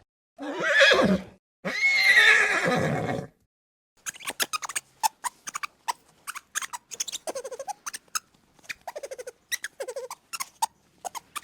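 Two animal calls, a short one and then a longer one of about a second and a half, followed from about four seconds in by a rapid run of short squeaks and clicks.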